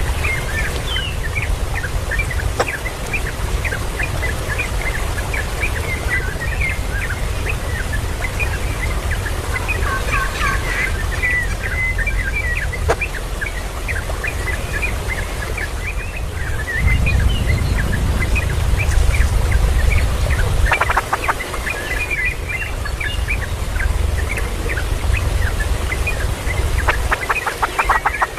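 Chicks peeping over and over in short high notes, with clucking from the adult fowl. A low rumble comes in about two-thirds of the way through, and quick rattling runs of clicks are heard just after it and again near the end.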